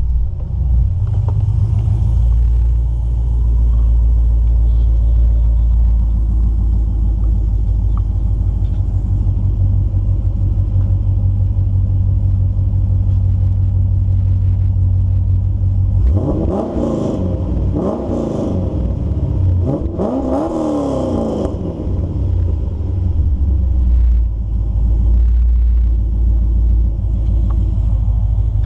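2010 Camaro SS's 6.2-litre LS3 V8 through Kooks long-tube headers, high-flow cats and a 3-inch Kooks exhaust, idling with a steady deep burble. About halfway through it is revved three times in quick succession, each rev rising and falling back to idle.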